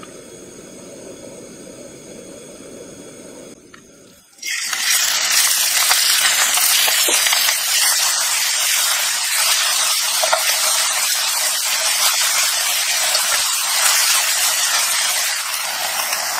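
Ground pork frying in a hot wok: after a few seconds of faint hiss, a loud, steady sizzle starts abruptly about four seconds in and keeps on.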